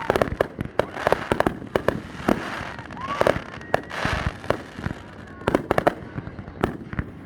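Aerial fireworks display: shells bursting in a rapid, irregular string of sharp bangs, some in quick clusters of several reports, with a hissing swell about four seconds in.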